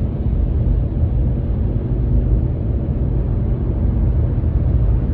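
A steady low rumble with no breaks or distinct events.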